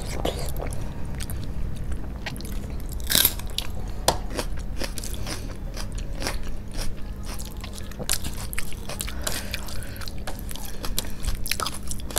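Close-miked chewing and wet mouth clicks of someone eating rice and curry by hand. Sticky squishes come in as fingers mix rice on the plate, with a faint steady hum underneath.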